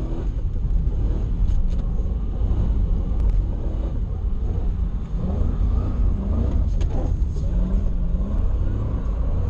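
Toyota 1UZ V8 engine of a swapped Nissan 240SX, heard from inside the cabin, running hard through a drift with its pitch rising and falling as the throttle is worked.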